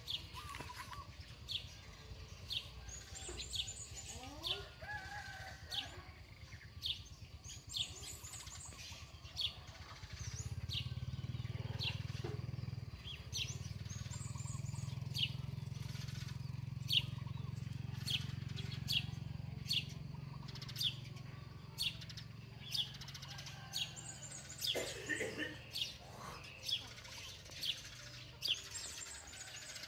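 Birds chirping: short, high chirps repeating about once or twice a second, with a few lower calls in between. A low steady drone comes in about ten seconds in and fades out about fourteen seconds later.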